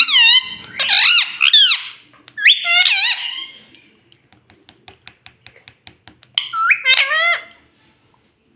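Pet ringneck parrot giving loud, pitch-bending squawks for the first few seconds, then a run of quick faint clicks, about six a second, and one more squawk near the end.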